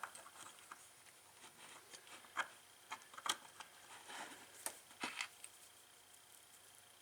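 Faint, scattered clicks and light taps of small parts being handled as a new carbon brush is fitted into a golf cart starter-generator's brush holder, spread over a few seconds and then stopping.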